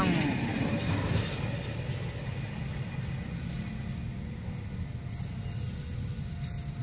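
Container-laden flat wagons of a freight train rolling past and away, the wheel-on-rail rumble fading to a low steady rumble. A brief wheel squeal right at the start.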